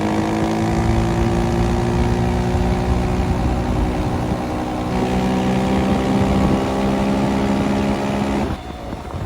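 Dirt bike engine running under throttle while riding, its note climbing slowly. The note changes about five seconds in and falls away near the end as the throttle closes.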